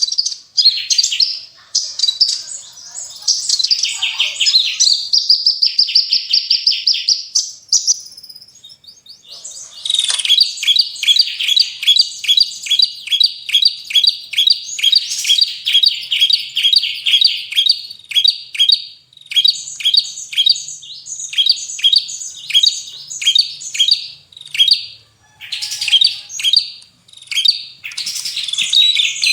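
Small songbirds singing a sharp, high-pitched mix of song: dense rapid trills for the first several seconds. After a brief pause about nine seconds in, a long series of sharp, evenly repeated chirps follows, several a second, and runs to the end.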